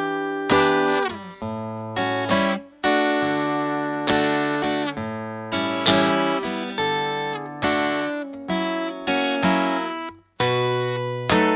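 Acoustic guitar playing a slow instrumental break in D major: strummed chords and plucked strings, each ringing out and fading before the next, with one brief muted stop near the end.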